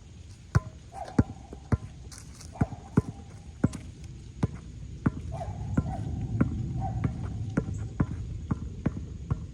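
Basketball being dribbled on a hard court: a steady run of sharp bounces, a little under two a second.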